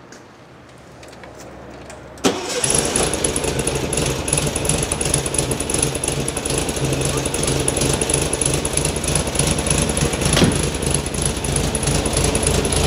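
A 1970 VW Beetle's air-cooled flat-four catches about two seconds in and then runs steadily from a cold start, with a steady high whine alongside.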